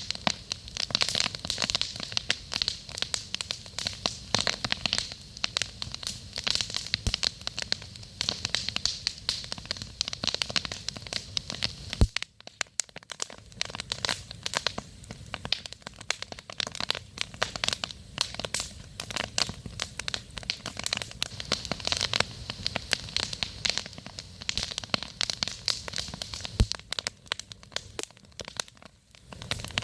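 Wood campfire crackling: a dense, continuous run of sharp snaps and pops, which drops away to near silence for about a second about twelve seconds in.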